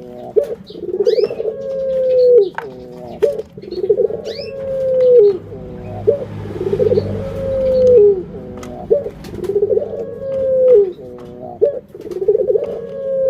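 Burung puter dove cooing over and over: a long, slowly falling coo followed by a few short quick notes, repeated about every two seconds, six times. Brief high chirps from a smaller bird sound between the coos.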